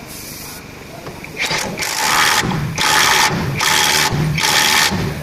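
A compressed-air tool run in four short bursts of about half a second each, starting about a second and a half in. Each burst is a loud air hiss with a low mechanical hum under it.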